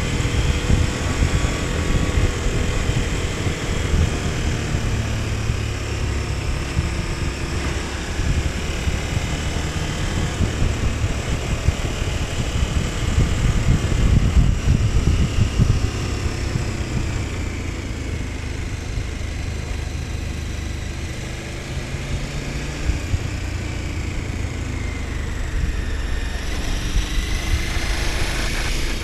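KTM 1290 Super Adventure S V-twin engine running under way. Its pitch falls around the middle and rises again near the end as the rider rolls off and opens the throttle.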